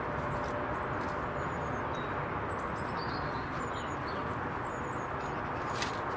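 Small birds chirping faintly several times over a steady outdoor background hiss, with one sharp click near the end.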